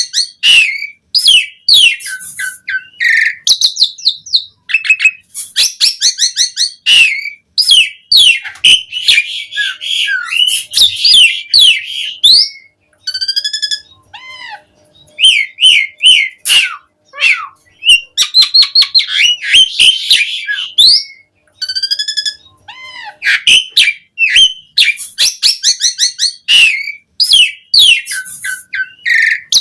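Asian pied starling (jalak suren) in continuous loud song: a varied stream of rapid chattering rattles, sharp chips and gliding whistles in quick phrases, with short pauses between them.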